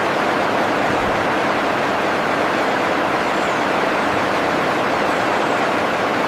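Steady, even rushing noise with no distinct calls or strikes in it.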